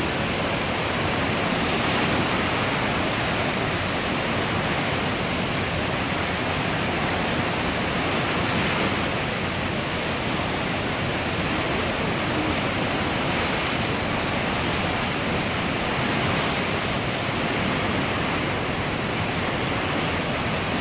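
The swollen Kamo River in flood, its high water rushing steadily.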